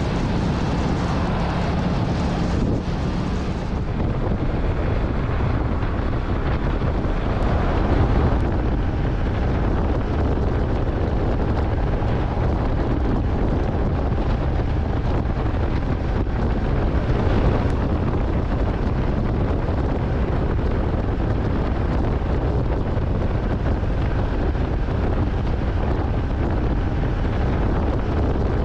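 Motorcycle riding along: the engine runs under a steady rush of wind buffeting the microphone.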